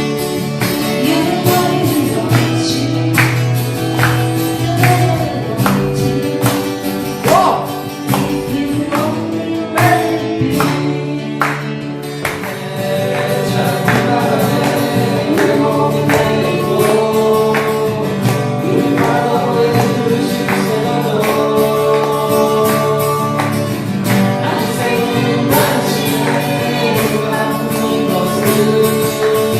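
A group singing a song together to strummed acoustic guitars.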